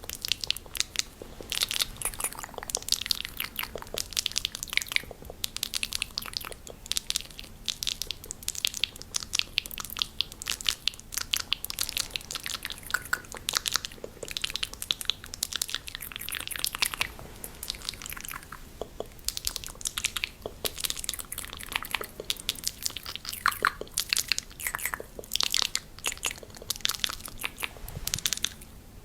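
Fast ASMR mouth sounds: rapid, dense mouth clicks without any talking, running on continuously.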